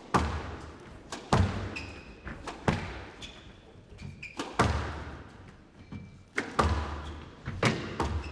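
Squash rally: the ball cracking off rackets and the court walls, about one sharp hit every second or so, each ringing out in the hall, with short high shoe squeaks on the court floor between hits.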